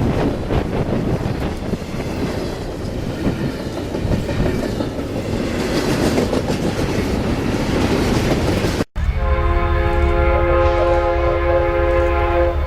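A train rolling past with a dense rumble and wind on the microphone. After a cut, a locomotive's multi-chime air horn sounds one long, steady blast of about three seconds, ending just before the end.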